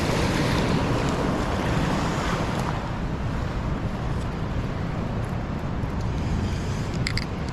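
Steady rushing of a swollen, fast-running river in flood, with wind rumbling on the microphone. It cuts off suddenly at the very end.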